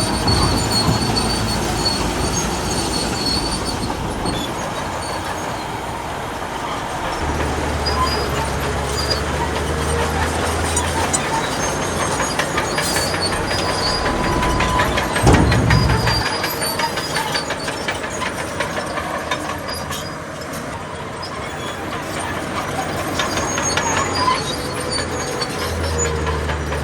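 Crawler bulldozer working, its diesel engine running under a steady clatter of steel tracks. High squeals come and go, and a run of rapid metallic clanks falls in the middle.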